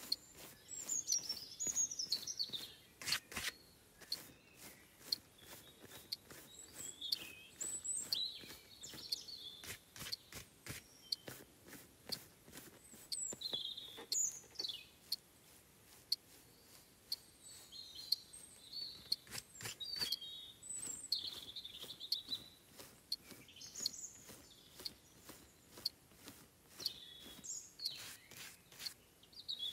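Birds chirping in short calls, several sweeping downward in pitch, over many irregular sharp clicks or taps.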